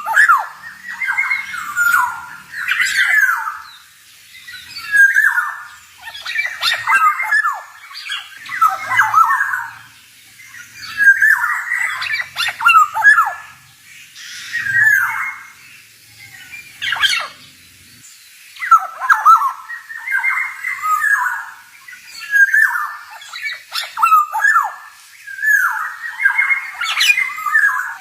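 Male black-naped oriole (kepodang) singing: short phrases of sweeping whistled and harsher notes, repeated every one to two seconds with brief pauses between.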